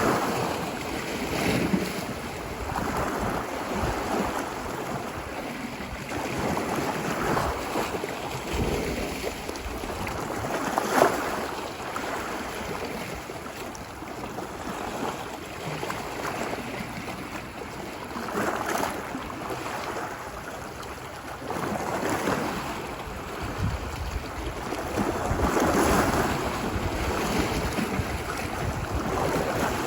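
Ocean waves breaking and washing ashore on a beach, swelling and receding every few seconds, with a sharper crash about eleven seconds in, over steady surf noise and some wind.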